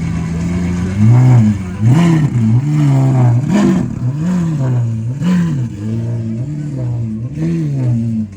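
Car engine idling steadily, then revved over and over in quick blips, its pitch swinging up and falling back about once a second, with a few sharp cracks among the revs.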